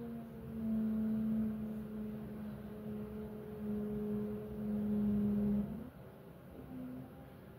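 A strange low drone of unidentified origin heard from inside an apartment: one long, steady tone that holds for about five and a half seconds and then stops, followed by a couple of short tones at the same pitch near the end.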